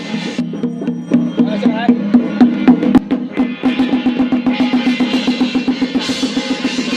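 Chinese temple ceremonial percussion: a drum beaten in fast, even strokes, several a second, with other percussion alongside. The sound grows brighter near the end.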